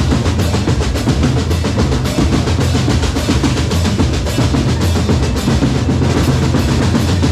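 Drum corps percussion playing a loud, continuous, busy rhythm of snare drums, rolls and bass drums over sustained low bass notes.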